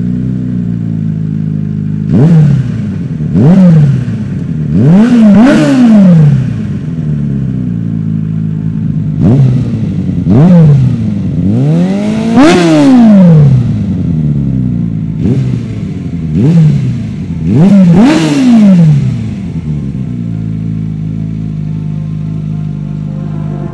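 Suzuki Bandit 650S inline four-cylinder engine idling steadily and being revved about ten times, each rev rising quickly and falling back to idle; the longest and highest rev comes about halfway through, and it settles back to idle for the last few seconds.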